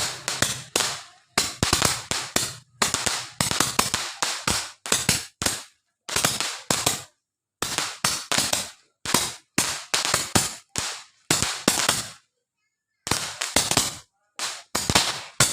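Firecrackers going off in quick clusters of sharp bangs, cluster after cluster with short gaps between and a longer pause about twelve seconds in.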